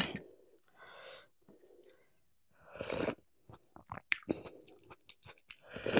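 A person chewing a mouthful of rice and curry close to the microphone, with wet smacking clicks that come thick and fast in the second half.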